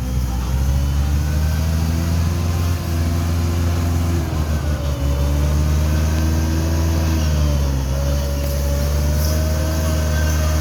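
Massey Ferguson 375 tractor's diesel engine running at a steady speed.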